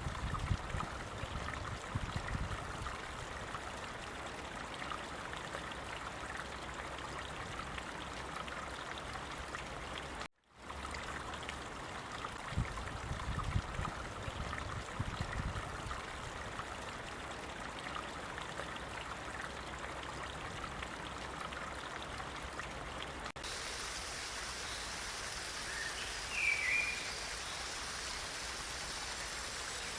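Stream water flowing steadily, with some low rumbles early on and again around 13–15 s. The sound drops out for a moment near 10 s. At about 23 s it changes to a brighter, hissier rush, and a short high chirp sounds around 26–27 s.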